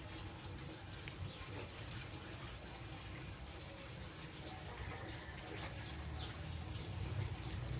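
Budgerigars chirping: two short runs of thin, very high twittering notes, one about two seconds in and one near the end, over a low background rumble.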